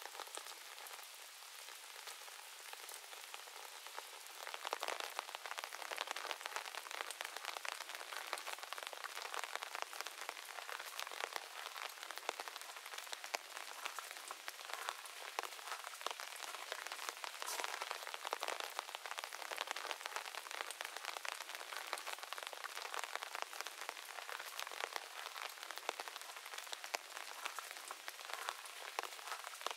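Steady rain falling on leaves and moss, a dense even hiss with many separate drops ticking close by. It grows louder about four and a half seconds in.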